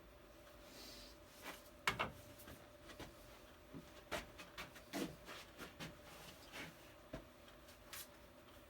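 Irregular light clicks and knocks, the loudest about two seconds in, over a faint steady hum.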